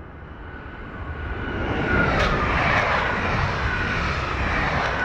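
A Z 26500 Regio 2N double-deck electric multiple unit passes close by, with wheel and rail rumble and a high traction-motor whine. The noise swells to a peak about two seconds in. The whine falls in pitch as the powered cars go by, once around the peak and again near the end, with a few sharp clicks over it.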